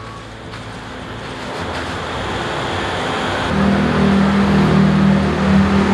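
A motor vehicle engine running and getting steadily louder. A strong steady low hum sets in about three and a half seconds in.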